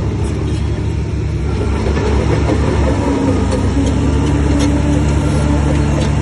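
Heavy diesel engine of earthmoving machinery running steadily, growing somewhat louder about two seconds in.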